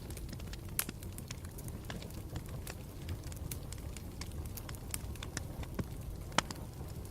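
Campfire burning, with a low steady rumble of flames under irregular sharp crackles and pops, two of them louder, about a second in and near the end.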